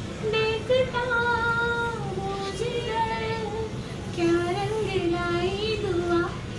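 A female voice singing a melody over music, with long held notes that slide and waver between pitches.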